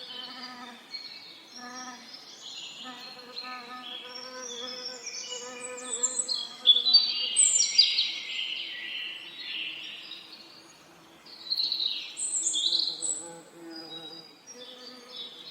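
Several songbirds chirping and singing in quick overlapping phrases, loudest about halfway through and again near the end, over a steady low buzzing of bees.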